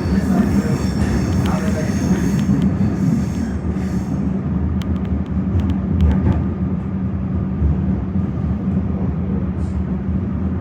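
Older-style electric suburban train running, heard from inside the carriage: a steady low rumble of wheels and motors. A high hiss drops away about four seconds in, and a few light clicks follow.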